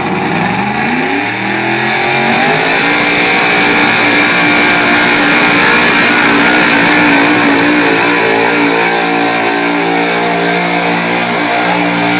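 Super stock 4x4 pulling truck's engine at full throttle as it pulls the weight sled down the track: it climbs in pitch over about two seconds, then holds high revs, wavering a little near the end.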